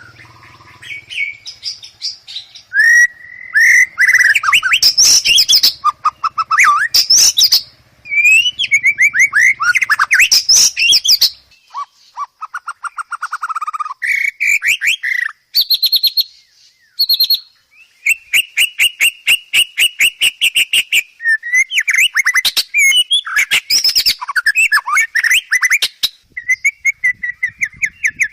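White-rumped shama (murai batu) singing a long, varied song full of mimicked phrases: clear whistles, sweeping notes and rapid trills of repeated notes, with short pauses between phrases.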